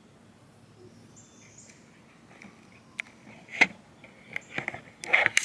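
Sharp knocks and clanks, a handful over the last two and a half seconds. The loudest comes about three and a half seconds in, and a quick cluster follows near the end.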